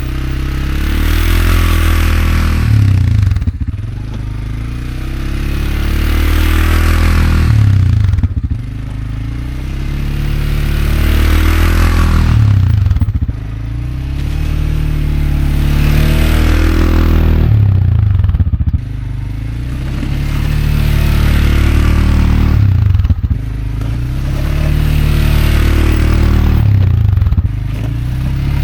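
CFMoto CForce 520L ATV's single-cylinder engine revving up under load as it pushes a snow plow, about six pushes that each build over a few seconds and then drop off suddenly. Each push comes with the scrape and hiss of the blade through snow.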